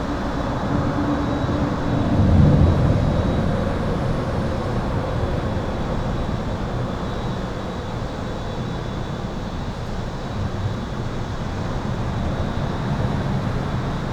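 Continuous highway traffic heard from under an overpass: a steady rush of tyre and engine noise with low rumbles. The rumble swells about two seconds in as a heavier vehicle passes. A faint, steady high-pitched buzz runs beneath it.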